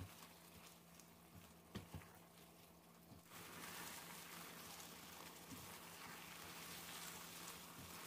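Faint sizzling of a water spinach and pork belly stir-fry in red curry sauce in a pan. A few light spatula ticks come first, then a soft, even hiss comes in about three seconds in.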